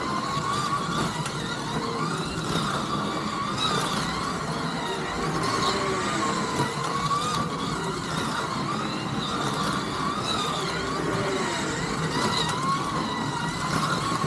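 Scalextric slot cars running around the track, their small electric motors whining, the pitch rising and falling again and again as the cars speed up on the straights and slow for the corners.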